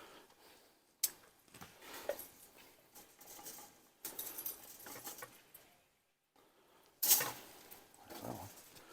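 Dog rolling around and scratching itself on the ground, making grunting noises among irregular rustling scuffs, with sharp knocks about one, four and seven seconds in.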